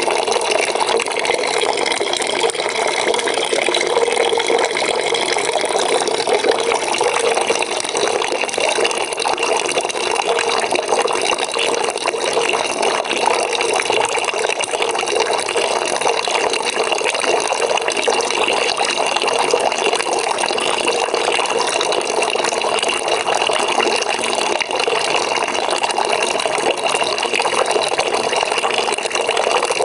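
Water running into a bucket as it fills: a steady, unbroken rush and splash.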